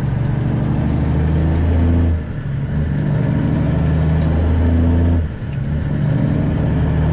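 Straight-piped diesel engine of a bobtail winch truck pulling under load, dropping off briefly twice, about two seconds in and about five seconds in, as for gear shifts. A faint high turbo whistle climbs between the shifts and falls away at each one.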